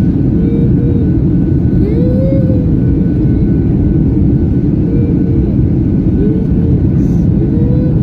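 Airliner noise: a loud, steady low rumble with a thin steady high tone over it.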